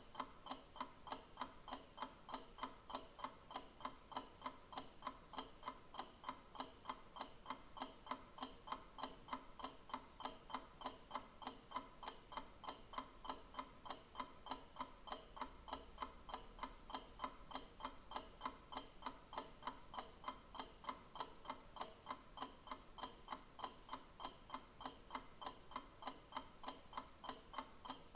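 Clock ticking with steady, evenly spaced ticks.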